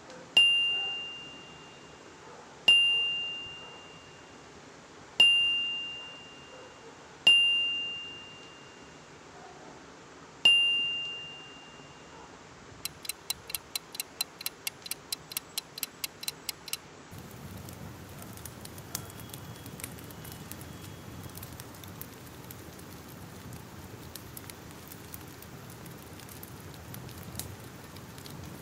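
Five bright single-note dings, a couple of seconds apart, each ringing out and fading over about a second. Then a quick run of about twenty sharp clicks. From a little past halfway, a crackling fire: a steady hiss and low rumble with scattered pops.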